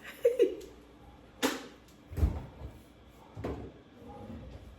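A few separate knocks and dull thumps about a second apart, with a short vocal sound just at the start.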